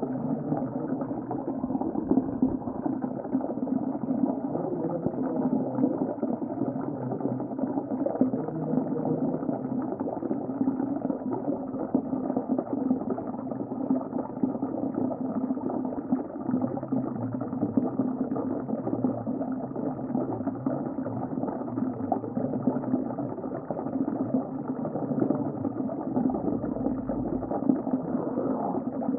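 Underwater sea ambience: a steady, muffled wash of bubbling, churning water with nothing bright or high in it.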